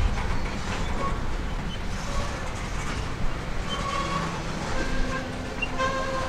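Freight cars rolling slowly past on jointed track, their wheels rumbling on the rails, with several short, faint squeals during the pass.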